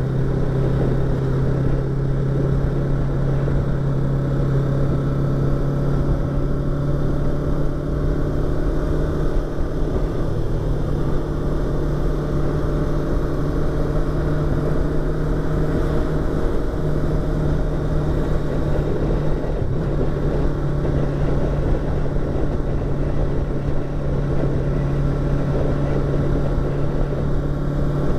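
Yamaha YZF-R25's parallel-twin engine running steadily under way, heard from a microphone inside the rider's helmet. Its note holds nearly constant, shifting slightly a couple of times.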